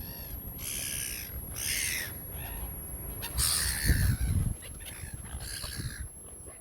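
Gulls calling: about six short, harsh calls spaced through a few seconds. A low rumble of wind or handling on the microphone comes about four seconds in.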